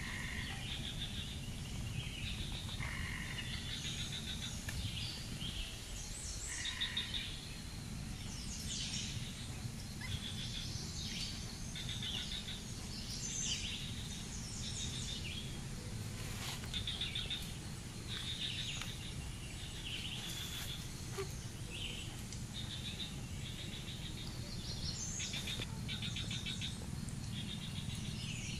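Birds chirping and calling repeatedly in the surrounding vegetation, many short high calls, over a steady low background rumble.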